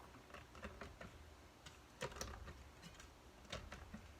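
Faint, irregular clicks and taps of something being handled, over a low steady hum.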